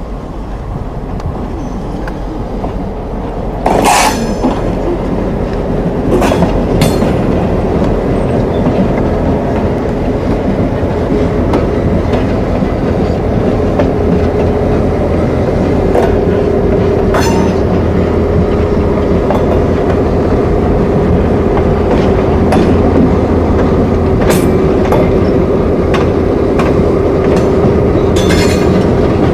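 Freight train rolling past at close range, a steady heavy rumble with sharp clacks of wheels over rail joints every few seconds. It gets louder after a loud knock about four seconds in, and a steady whine joins about halfway through.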